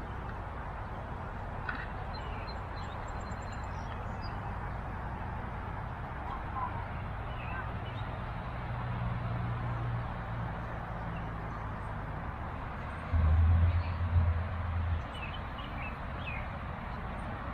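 Outdoor ambience: a steady background hiss with faint, scattered bird chirps. About three-quarters of the way through there is a low rumble lasting a couple of seconds, the loudest sound here.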